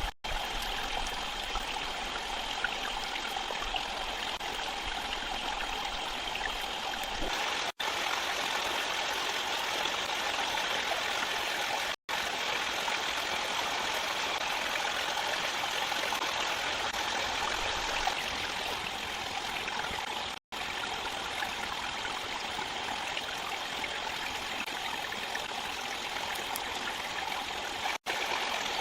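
Steady rush of flowing stream water, broken four times by a brief drop to silence.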